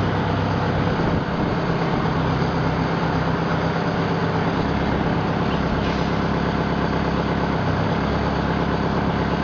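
Straight-piped Detroit Diesel 8V71, a two-stroke V8 diesel, running steadily at an even speed.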